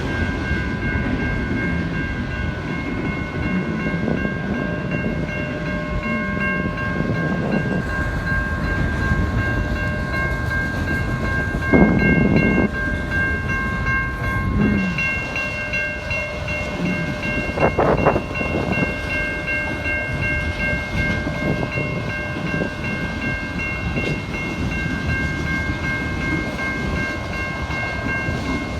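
Norfolk Southern auto rack freight train rolling through a grade crossing: a steady rumble of wheels on rail, with several high steady ringing tones running above it. Two louder knocks stand out, about twelve seconds in and again about six seconds later.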